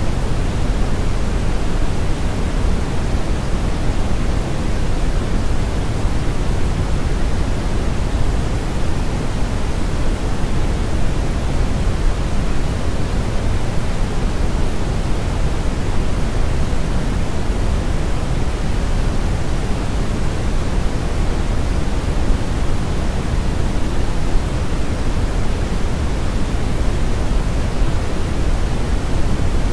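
Brown noise: a steady, even rushing hiss, strongest in the low end and falling off toward the highs, like a river current or strong wind. It is unchanging throughout.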